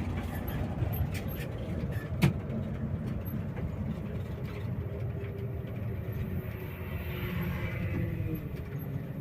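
Bus engine running steadily, with a single sharp click about two seconds in.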